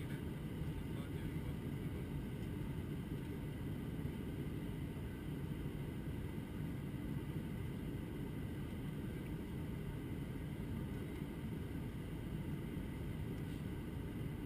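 Steady low roar of an Airbus A321-200's engines and rushing air, heard inside the passenger cabin.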